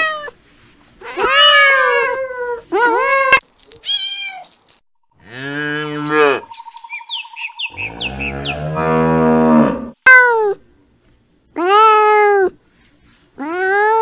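Kittens meowing, a run of short high meows. In the middle a calf moos twice, long calls much lower in pitch, then the kittens meow again.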